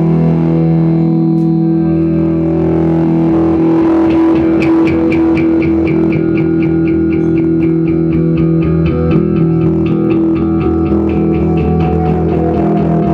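Guitar-led band music with bass: held, droning notes, joined about four seconds in by a fast, even ticking rhythm.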